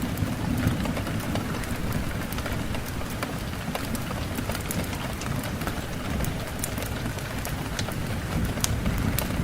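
Steady rain falling, with individual drops ticking sharply against a surface over a continuous low rumble.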